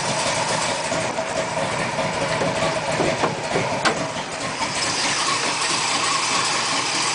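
Chevrolet 396 big-block V8, carbureted and breathing through cast exhaust manifolds, running steadily just after a cold start, the first in a couple of months.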